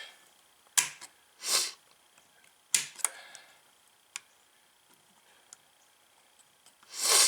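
Sharp metallic clicks and taps of the brush springs and brush holder of a golf cart starter/generator being worked by hand as the springs are pulled back to hold the brushes open. Two short breathy sniffs come between them, the louder one near the end.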